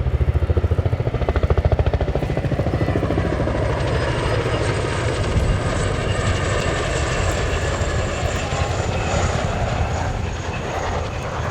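A CH-47J Chinook tandem-rotor helicopter flying past loud, its rotor blades beating in a rapid chop that is strongest in the first few seconds, over a steady high turbine whine.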